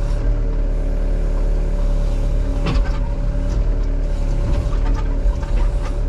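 Case tracked excavator's diesel engine running steadily under load while the machine pushes against trees, with a few short sharp knocks or snaps over it, about a third of the way in and again past the middle.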